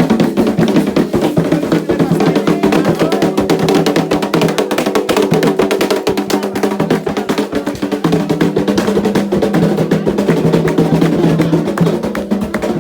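Candomblé ritual drumming: hand drums played in a fast, dense, unbroken rhythm.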